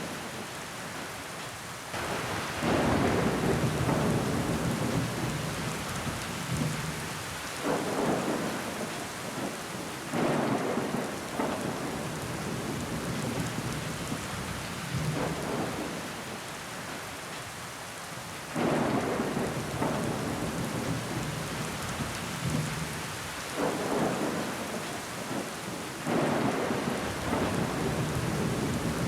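Steady rain with an even hiss, swelling louder every few seconds.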